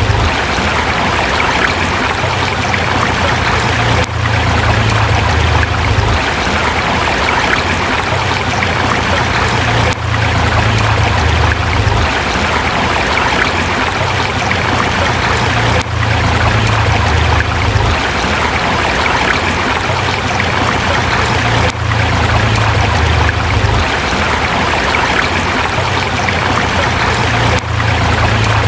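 A forest river flowing over rocks: a steady, loud rush of running water with a low rumble underneath, dipping briefly every few seconds.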